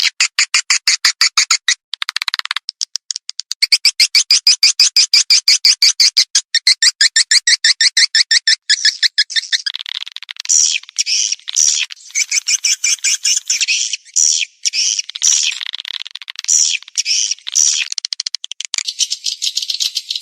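Swiftlet calls from a swiftlet-farming lure recording: fast trains of high, rattling chirps, about eight a second, most even and loudest in the middle, breaking into more irregular chattering near the end.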